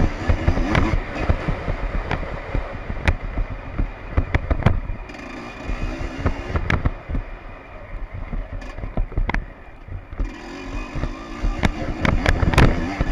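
Two-stroke motocross bike engine running with wavering revs, over a rough, noisy rumble scattered with sharp knocks. It is quieter for a couple of seconds in the second half.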